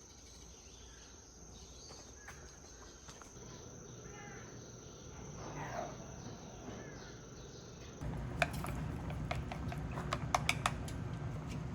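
Outdoor summer ambience: a steady high insect drone with a few short bird calls in the middle. About eight seconds in it cuts to a louder low rumble with a run of sharp clicks.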